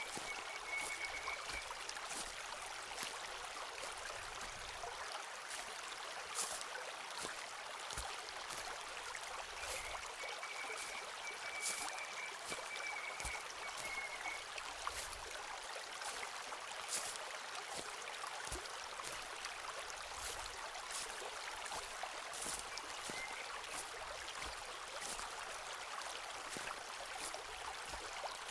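Footsteps on a forest path, crisp steps about once a second or so, over the steady rush of a stream. A thin, high, held note joins for a few seconds about ten seconds in.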